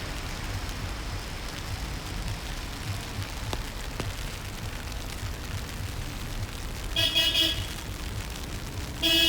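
Car horn honking twice, each a short blast, about seven seconds in and again near the end, over a steady rumble of street traffic.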